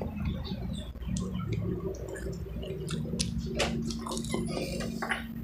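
Close-miked eating sounds: a child biting into and chewing a potato corn dog, with irregular wet mouth clicks and smacks.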